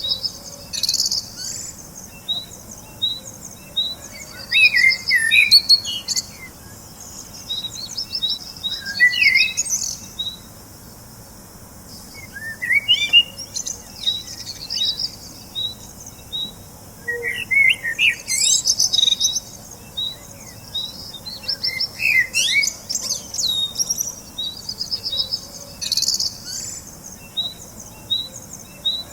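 Several small birds chirping and twittering. A steady series of short high notes repeats evenly underneath, while louder bursts of chirps and trills come every few seconds.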